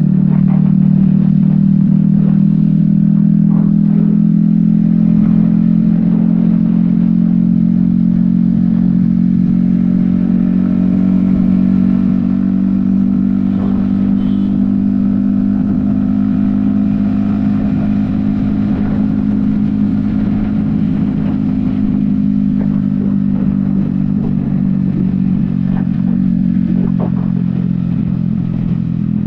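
Yamaha XSR155's 155 cc single-cylinder engine running steadily at highway cruising speed, recorded from a helmet-mounted camera, its pitch holding nearly constant and easing slightly about twelve seconds in.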